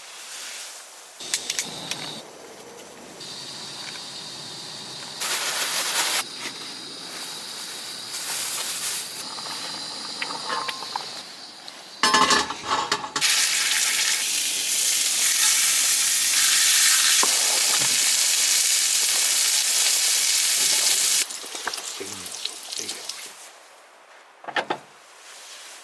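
Pork belly sizzling in a hot pan. The sizzle swells much louder for several seconds past the middle, then dies down, with a few clicks and knocks of utensils on the pan.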